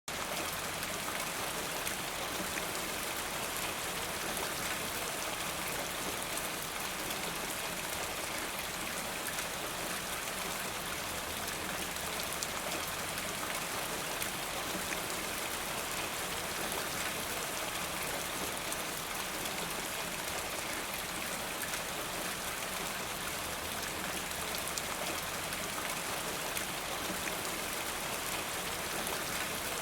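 Steady rain falling in a forest, a dense even hiss with many small drop patters.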